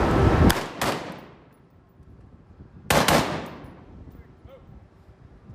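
Steady rushing noise that cuts off suddenly, then two loud single shots, one just under a second in and one about three seconds in, each ringing away over a second or so.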